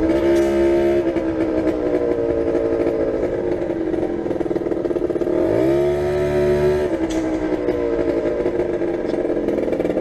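Motorcycle engine running as the bike rides, its pitch rising as it accelerates a little past halfway and dropping back about a second later.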